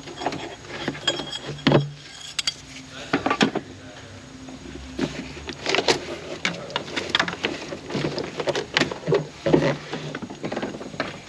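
Hand tools clinking, knocking and scraping on a car battery's terminals and clamps, in irregular strokes.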